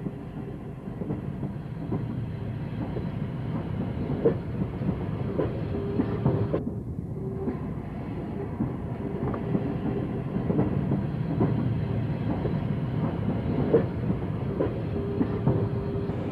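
Train running on the rails, a steady rumble with wheels clicking over rail joints.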